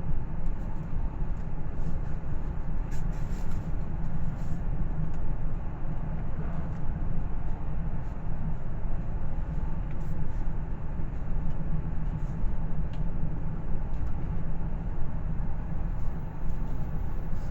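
Passenger train running along the line, heard from inside the carriage: a steady low rumble of wheels and running gear.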